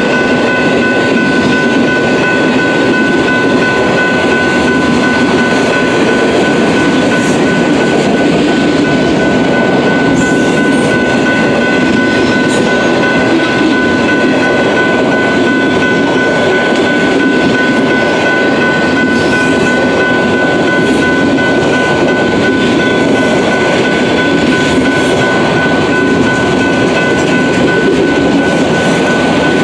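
Autorack freight cars of a BNSF train rolling past at speed: a steady, loud rush of steel wheels on rail with some clickety-clack, and a constant high ringing tone that holds unchanged throughout.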